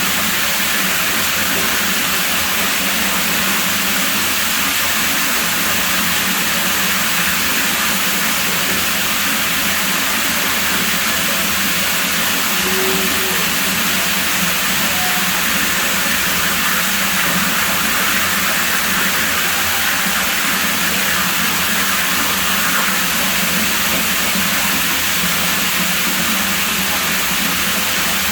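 Pool water running, a steady, even rush that does not change.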